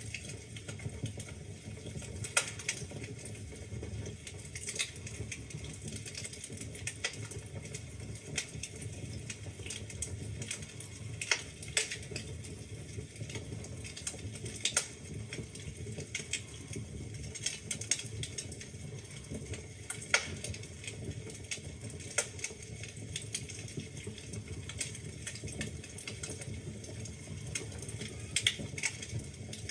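Wood fire burning in a fireplace: a steady low rumble of flame with irregular crackles and occasional louder pops from the burning logs.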